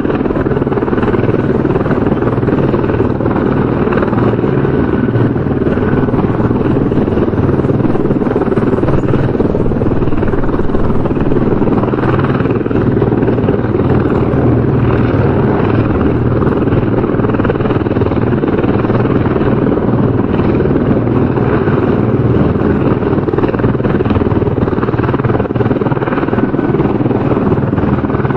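Helicopter rotor and engine noise, a steady continuous chopping drone that holds at one level.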